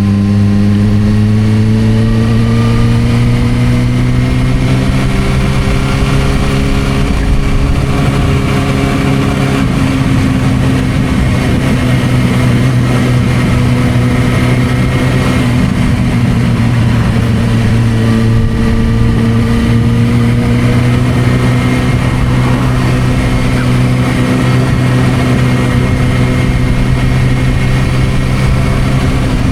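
Suzuki GSR600's inline-four engine running through an aftermarket Dominator exhaust on the move, its pitch rising gently over the first several seconds, then holding fairly steady with a slight dip and rise again past the middle.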